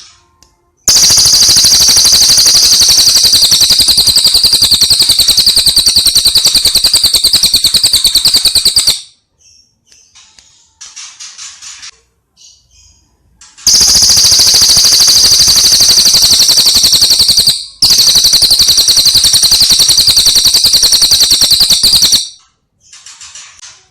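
Recorded songbird calls: long, very loud, very fast buzzing trills with the notes packed too close to count, broken by pauses filled with short, softer high chirps. The mix is of tengkek buto, cililin and canary song.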